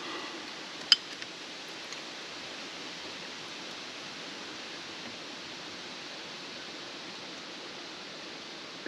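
A steady, even hiss, with one sharp click about a second in and a few faint ticks just after.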